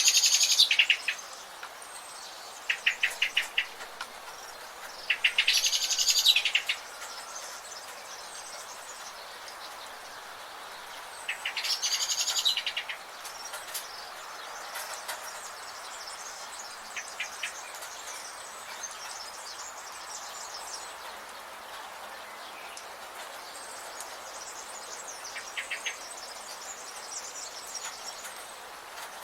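Forest birds calling: a few loud, rapid trilling and chirping calls in the first half, then only scattered faint chirps, over a steady background hiss.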